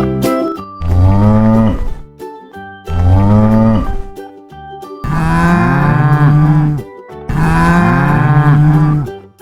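Cow mooing four times: two shorter moos that fall in pitch, then two longer, drawn-out moos, with children's background music underneath.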